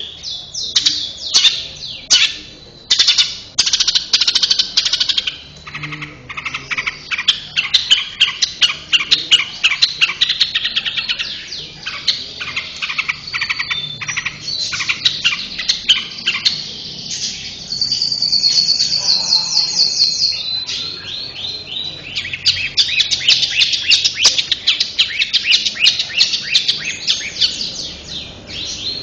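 Long-tailed shrike (cendet) singing without pause: a fast, dense stream of sharp chattering notes, with quick repeated trills in the middle and near the end. A non-stop singer of the kind bird keepers call a 'mesin diesel' cendet.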